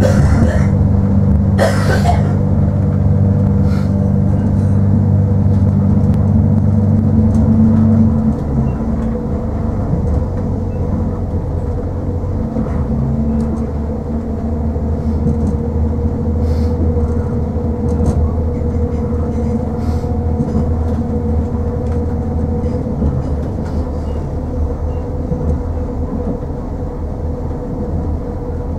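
Inside the passenger saloon of an Irish Rail 22000 class diesel railcar under way: a steady drone from its underfloor diesel engine with the rumble of the wheels on the rails. About eight seconds in the engine note changes and the sound drops somewhat, with a few brief clicks and knocks along the way.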